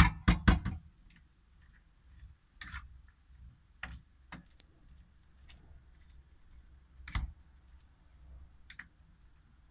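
Pot and utensil clatter in a kitchen: three sharp clinks in quick succession at the start, then single scattered clicks and knocks every second or two, as of a lid and spoon against a soup pot.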